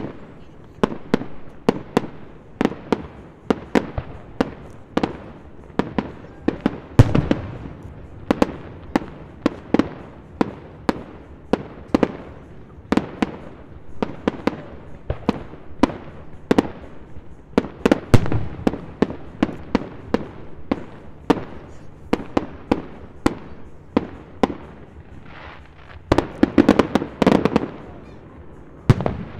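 Aerial fireworks bursting in a steady run of bangs, about two a second, with heavier booms about seven and eighteen seconds in and a thicker flurry near the end.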